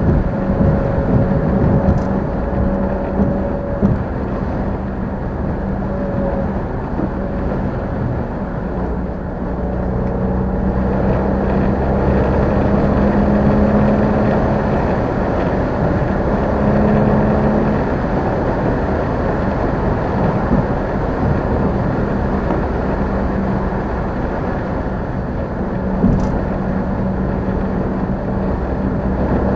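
Car engine running while driving in traffic, with steady road and tyre noise; the engine note swells a little about ten seconds in and eases back later.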